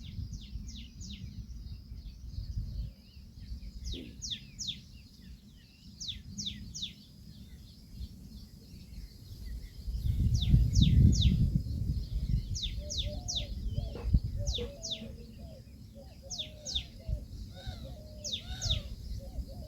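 Birds calling: short, high chirps that fall in pitch, in quick groups of two to four, repeating every couple of seconds, with lower wavering calls in the second half, over a low rumble of wind on the microphone.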